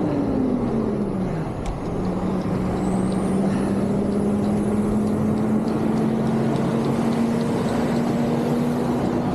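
Motor traffic passing a cyclist over steady wind and road noise: a large vehicle's engine drone drops in pitch in the first second or so as it goes by, then a steady engine drone holds, rising slightly.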